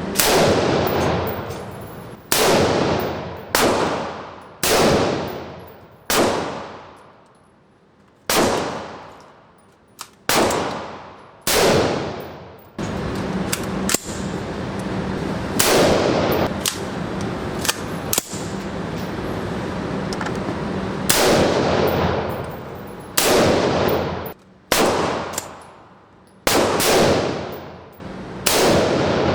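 Firearm shots fired one at a time, about one every one to two seconds, each sharp crack followed by a long echoing decay.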